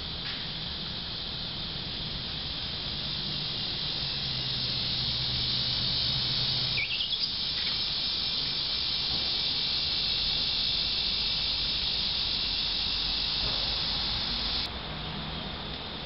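A steady, high-pitched chorus of insects droning, which drops away suddenly near the end. A few brief bird chirps come about halfway through.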